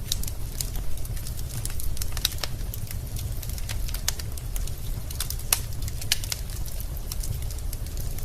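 Wood fire crackling in a fireplace: logs popping and snapping in quick, irregular sharp clicks over a steady low rumble of the flames.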